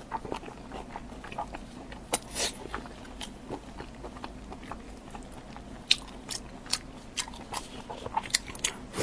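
Close-miked eating sounds: biting and chewing food, a string of irregular wet mouth clicks and smacks, with a brief louder burst a little over two seconds in.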